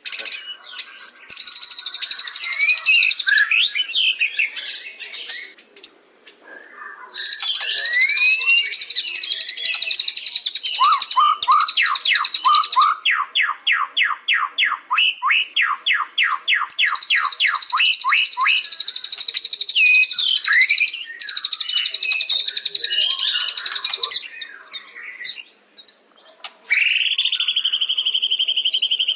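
White-rumped shama singing a varied song of whistles and rapid chatters. In the middle comes a long run of quick rising notes, about five or six a second, and near the end a held whistle.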